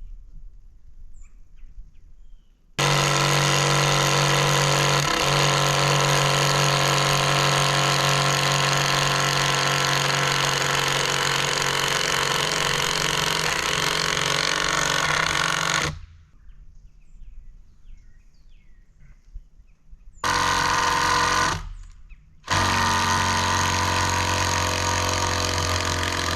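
Cordless impact driver hammering a big screw down into a timber: one long run of about thirteen seconds, a short burst, then a final run until the screw is driven all the way down.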